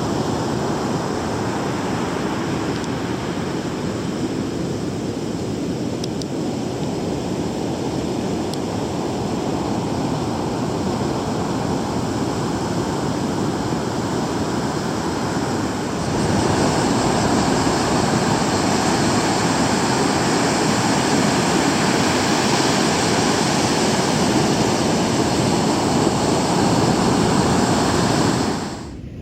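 Ocean surf from a typhoon swell breaking on the beach: a steady rushing noise that steps up louder about halfway through and drops away near the end.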